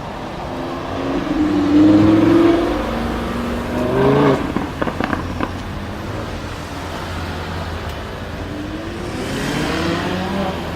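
Lamborghini Huracán LP610-4's V10 engine revving and accelerating: the pitch climbs about two seconds in, a few sharp exhaust pops follow around four to five seconds, and it climbs again near the end.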